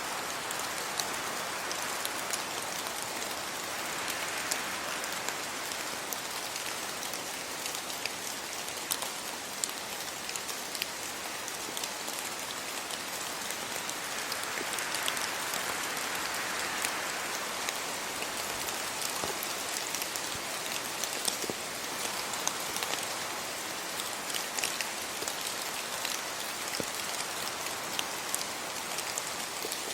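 Steady rain with many sharp individual drops landing close by. Gusts of wind through tree leaves swell the hiss about four seconds in and again around the middle.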